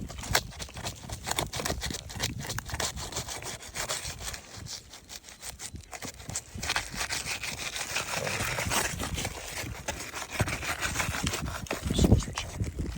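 Metal flat pry bar scraping and prying under old asphalt 3-tab shingles to break them loose, with scattered knocks. The scraping thickens in the second half, and a heavier thump comes near the end.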